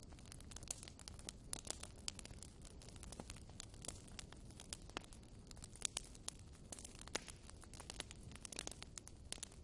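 Wood fire crackling in a fireplace: irregular sharp pops and snaps, several a second, over a faint low rumble of burning.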